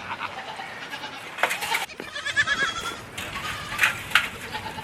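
Goat bleating: one wavering call about two seconds in, with a few short knocks and clatters around it.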